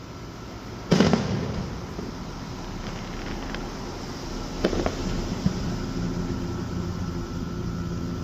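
Fireworks exploding overhead: one loud bang with a rumbling tail about a second in, then two quieter bangs a little before the five-second mark and a few faint pops, over a low steady hum.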